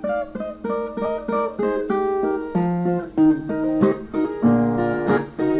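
Brazilian viola playing an instrumental break between sung verses: a melodic run of single plucked notes, with a few strummed chords near the end.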